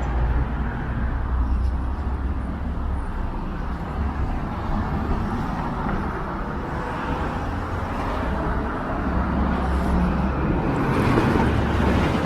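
City street traffic: cars driving past steadily, with a louder vehicle swelling past near the end.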